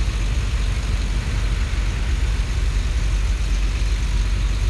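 Antique tractor engine running steadily, its sound heavy and low with an even, rapid beat.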